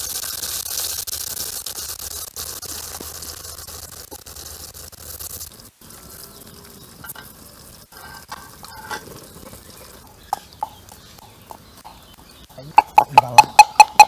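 Potato wedges sizzling as they drop into hot oil in a wok, a steady hiss that stops after about five and a half seconds. After a quieter stretch of faint clicks, a wooden pestle pounds garlic in a clay mortar near the end: a fast run of about eight sharp, ringing knocks, the loudest sound here.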